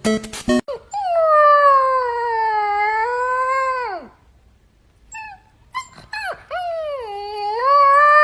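A dog howling: one long howl that slowly sinks in pitch and drops away, a few short yips, then a second long howl that climbs and holds.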